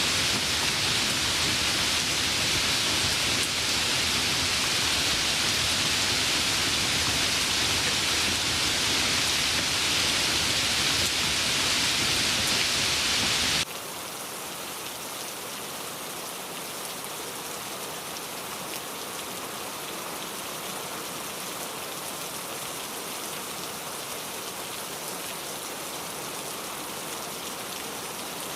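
Steady rain falling. About halfway through, it cuts abruptly to a quieter, lighter patter with less low rumble.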